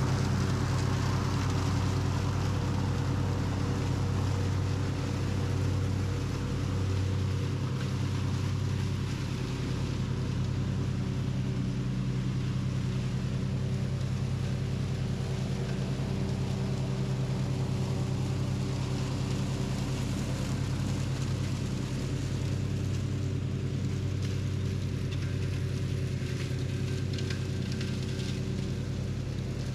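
Simplicity Regent lawn tractor engine running steadily at a constant speed while mowing up leaves.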